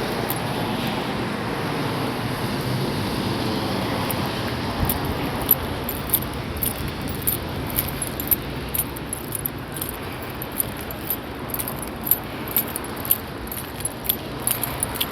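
Steady rain and wet-street noise with the wash of passing traffic, louder in the first few seconds. Irregular light, high ticks run over it and come more often from about five seconds in.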